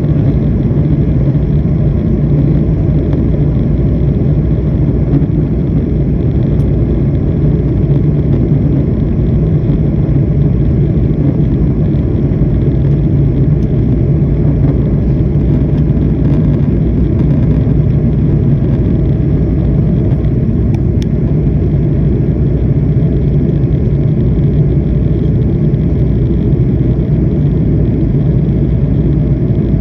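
Jet airliner's engines and rushing air during takeoff: a loud, steady low rumble that holds level with no change in pitch.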